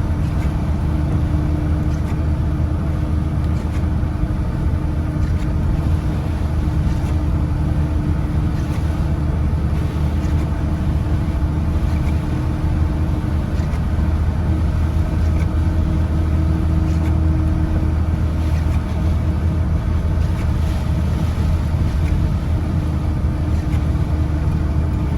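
Vehicle engine running at a steady pace, with a steady hiss of heavy rain over it.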